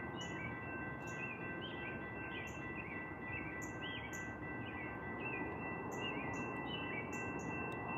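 Small birds chirping repeatedly over a steady background noise, with a few thin, steady high tones held throughout.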